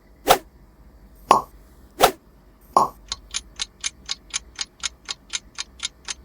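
Four popping sound effects about three-quarters of a second apart, then clock-like ticking at about four ticks a second from about three seconds in: a quiz countdown timer running while the viewer guesses.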